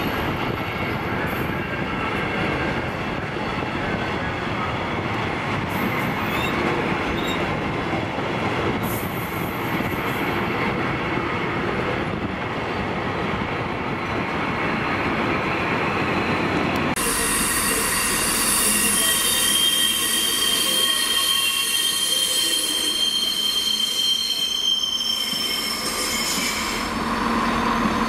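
A long rake of loaded freight wagons rolling past, a steady rumble of wheels on rail. About 17 seconds in the sound changes abruptly to a thinner hiss carrying steady high squealing tones.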